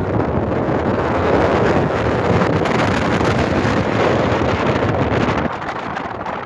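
Strong mountain-summit wind gusting and buffeting the microphone in a loud, steady rush, easing a little about five and a half seconds in.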